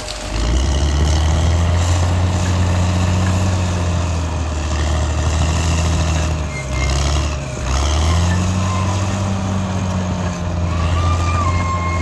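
Caterpillar D6R XL bulldozer's diesel engine running under load, its pitch sagging and recovering around six to eight seconds in. A thin high whine comes in near the end.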